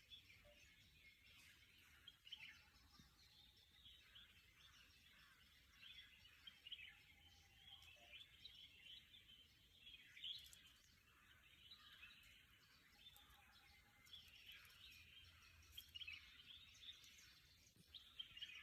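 Faint, continuous chorus of small birds chirping and calling over quiet ambient noise.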